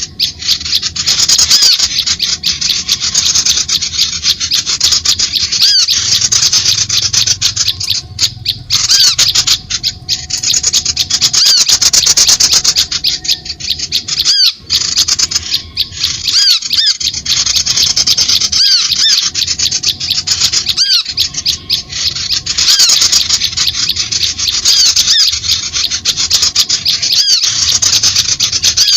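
Dense, continuous chattering of small birds: rapid high chirps and squeaky, arching notes tumbling over one another, a bird-lure (pemikat) call recording meant to draw birds in.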